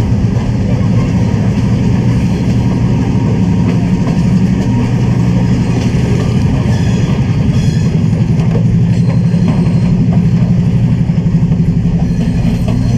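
Diesel-hauled passenger train on the move: a steady low engine drone with a fast, even rattle, loud and unbroken.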